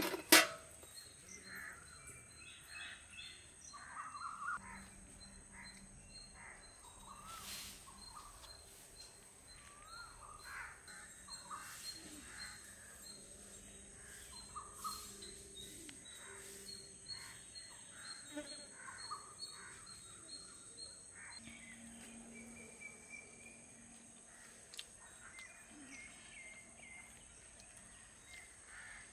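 Outdoor ambience with birds calling and chirping here and there, and a faint, high, regularly repeated ticking that stops about two-thirds of the way through.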